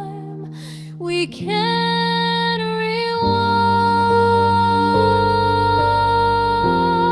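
Slow song: a woman's voice holds one long note over low, slowly changing chords, with a light vibrato near the end.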